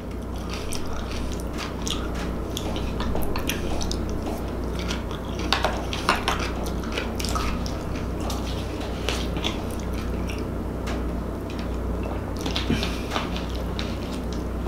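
Close-miked chewing and wet mouth sounds of a person eating, with many small clicks and smacks over a steady low hum.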